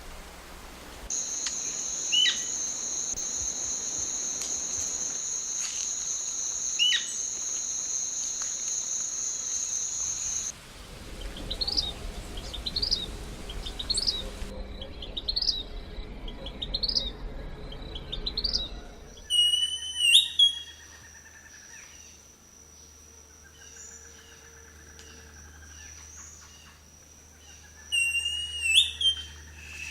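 Calls of wild birds in successive clips, likely several different species. First come two short falling chirps over a steady high buzz. Next is a run of quick rising notes, about one every second. Last come a few sharp calls near the end.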